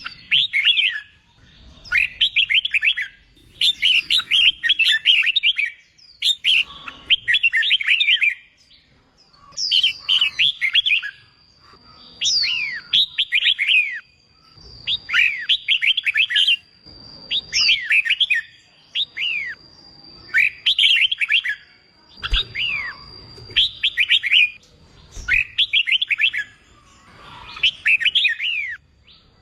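A red-whiskered bulbul singing: short bursts of quick, sweeping whistled notes, repeated about every two seconds. A thin, steady high tone holds from about a third of the way in until near the end.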